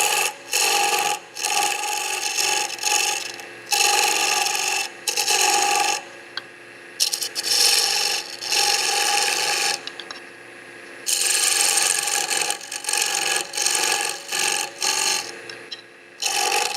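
Woodturning chisel cutting into a spinning pine spindle on a lathe: repeated loud scraping bursts as the tool is pushed in and eased off, over the steady hum of the running lathe.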